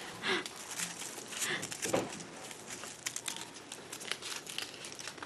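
Crinkling and rustling with many small clicks, the sound of Christmas ornaments and their wrapping being handled. A few faint voice sounds come in the first two seconds.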